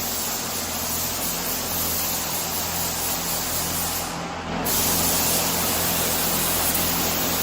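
Air spray gun hissing as it lays down clear coat, over a steady low hum. The hiss cuts out briefly a little past four seconds in, then resumes louder.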